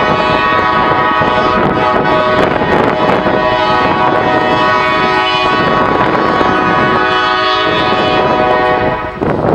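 Locomotive air horn sounding one long held chord of several tones, stopping about nine seconds in.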